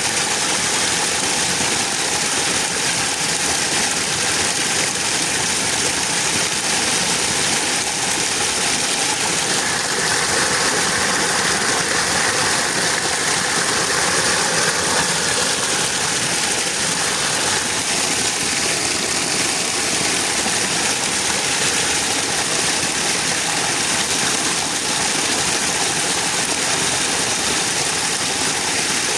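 An engine running steadily under a constant rushing noise.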